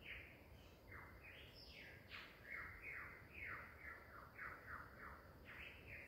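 A bird calling in bushland: a long, faint run of quick downward-sliding whistled notes, two or three a second, some starting higher in pitch than others.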